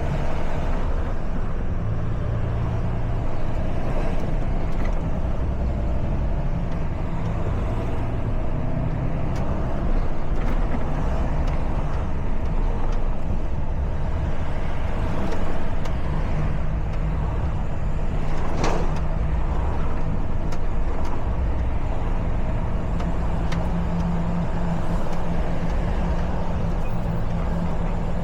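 Truck engine running on the road, its low drone shifting in pitch a few times as the revs change, with tyre and traffic noise. A short sharp noise stands out about two-thirds of the way through.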